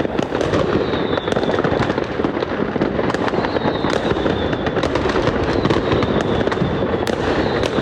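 Dense barrage of New Year's fireworks and firecrackers: continuous crackling and popping bangs, with a few faint high whistles over them.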